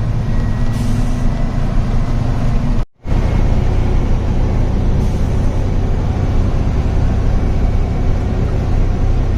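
A truck's diesel engine running steadily as it drives, with road noise. The sound cuts out briefly about three seconds in.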